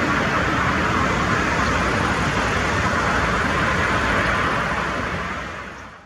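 Steady rushing noise of an Airbus A220 airliner landing in strong crosswinds, its engine and wind noise blended together. It fades out near the end.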